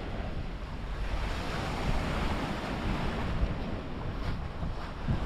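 Sea surf washing onto the beach in a steady hiss, with wind buffeting the microphone in a low rumble.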